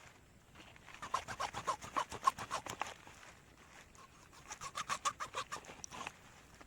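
A hen clucking in two quick runs of short, rapid clucks, one about a second in and another a little past the middle.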